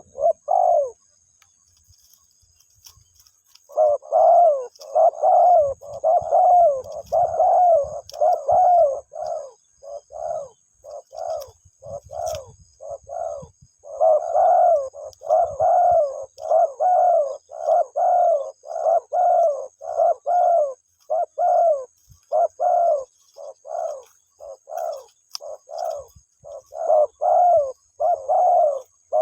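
Spotted dove cooing: one short coo, a pause of about three seconds, then a long, evenly paced series of short coos, one or two a second.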